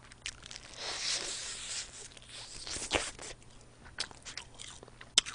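Close-miked chewing and crunching of a crispy fried chicken wing: a stretch of crunching in the first couple of seconds, then a few sharp separate crunches.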